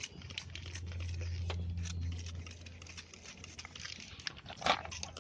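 A trigger spray bottle squirting diesel onto a motorcycle chain in short spritzes, with scattered clicks. A low steady hum sits underneath for the first few seconds.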